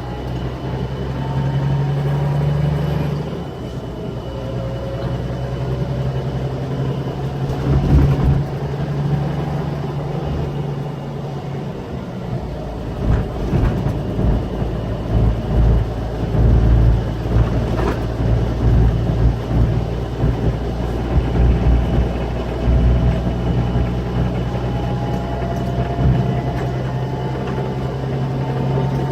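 Scania K340 coach's diesel engine running under way, heard from on board, its pitch slowly rising as it accelerates. From about halfway through there are irregular knocks and thuds.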